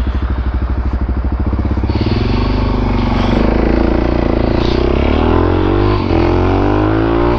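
Dual-sport motorcycle engine pulling away from a standstill: an even, low pulsing at first, then rising steadily in pitch as it accelerates. There is a brief drop at a gear change about six seconds in, and then the pitch rises again.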